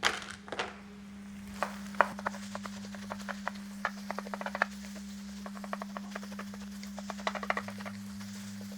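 Spatula tapping and scraping irregularly against a frying pan as fried rice with edamame is stirred and broken up, over a faint steady sizzle and a low hum.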